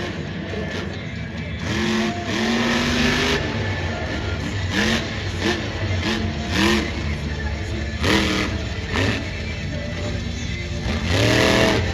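Monster truck's supercharged, alcohol-burning engine revving in repeated short throttle blasts, each rising and falling in pitch. The last blast near the end is the loudest.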